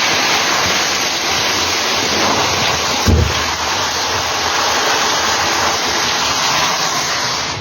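Heavy hail pelting down in a dense, steady roar of hailstones, with a brief low thump about three seconds in.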